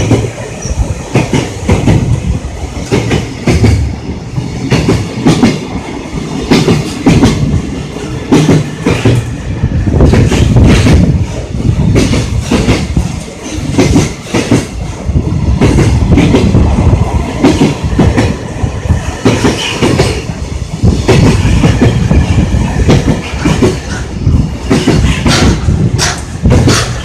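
Freight train wagons rolling past at speed, the wheels clattering over rail joints in a continuous run of clicks and knocks over a steady rumble.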